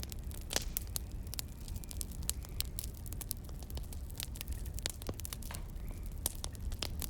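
Wood fire crackling: irregular sharp pops and snaps, a few a second, over a steady low rumble.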